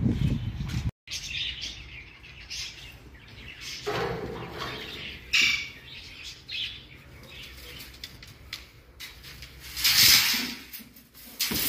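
Birds chirping and calling in short bursts, with one louder, sharp noise about ten seconds in.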